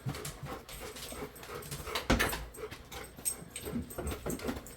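A pet dog panting in short, irregular breaths.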